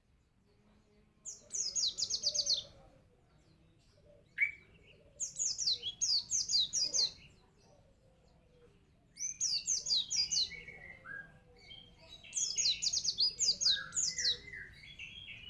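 Pleci (white-eye) in full song, in four quick phrases of fast, high, falling notes with short pauses between them.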